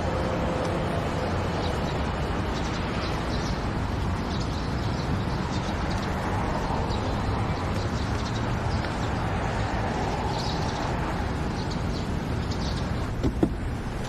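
Steady outdoor background hum like distant traffic, with a few faint bird chirps about ten seconds in and a brief click near the end.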